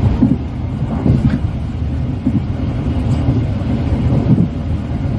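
Steady low rumble of a diesel-hauled passenger train heard from on board.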